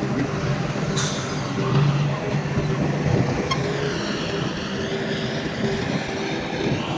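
Diesel engine of heavy earthmoving machinery running steadily, with a sharp click about a second in and a high, wavering squeal through the second half.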